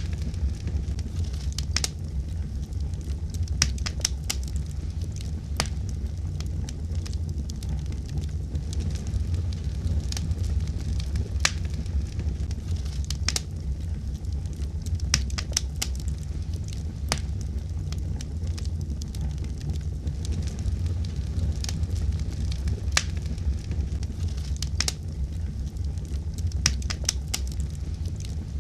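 Fire burning in a fireplace: a steady low rumble with sharp crackles and pops at irregular moments throughout.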